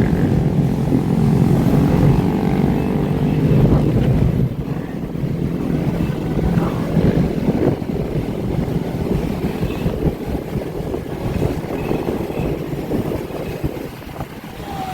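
Motorbike and dirt bike engines revving and passing, with the pitch rising and falling. It is loudest over the first four seconds, then drops to a lower mix of several engines.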